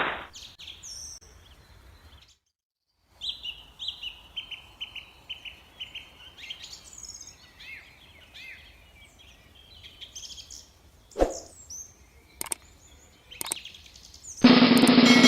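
Small birds chirping and calling in quick short notes, several voices at once, with a few sharp clicks. Near the end a loud buzzing tone cuts in.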